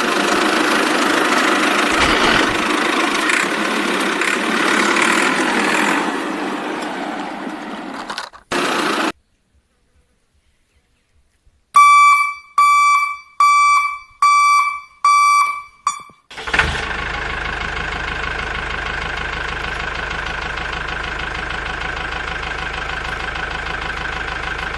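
Vehicle engine sound running for several seconds and then cutting out. After a pause come six short, evenly spaced horn beeps, then an engine running steadily.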